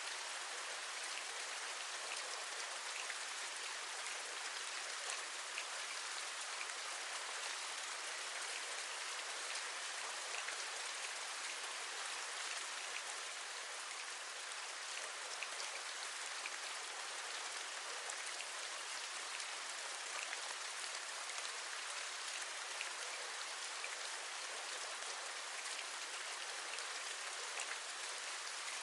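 Steady rain falling, an even hiss with many light drop taps scattered through it.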